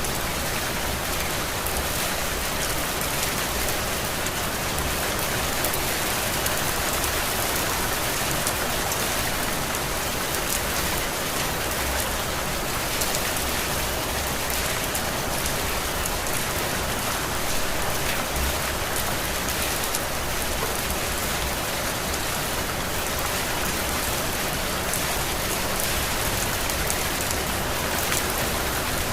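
Heavy rain falling steadily: an even hiss of water with a dense patter of drops and no let-up.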